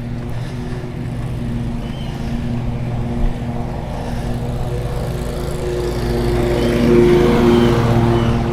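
An engine running at a steady pitch over a low rumble of wind and tyres, growing louder about seven seconds in.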